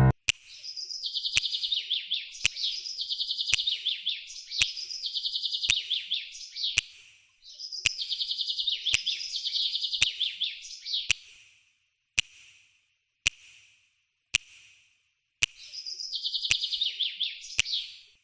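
Small bird chirping in quick trills, in several near-identical phrases with short gaps between, together with sharp clicks about once a second.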